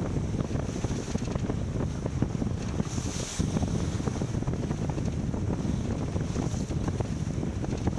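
Strong wind buffeting the microphone aboard a racing sailboat under way, a steady low rumble with irregular gusty thumps, over the hiss of water along the hull that swells briefly about three seconds in.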